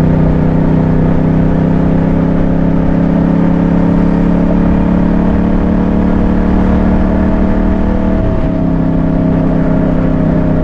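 Yamaha MT-07 motorcycle's parallel-twin engine running steadily while riding, with a brief dip in pitch about eight seconds in.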